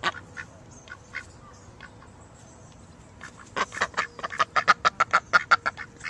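Ducks quacking: a few scattered single quacks, then about halfway through a fast, loud run of a dozen or so quacks at about four to five a second.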